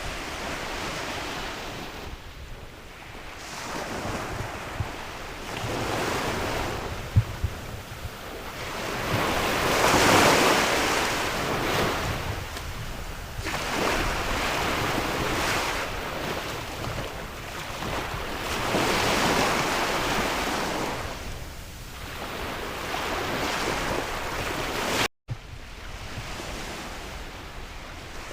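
Sea waves breaking and washing up a shore, surging and receding every few seconds, with wind gusting across the microphone. A brief drop-out about three-quarters of the way through.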